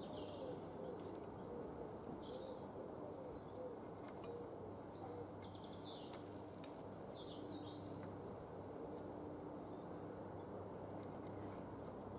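Small birds chirping in short scattered calls, with a low, repeated wavering call in the first few seconds, over a faint steady hum.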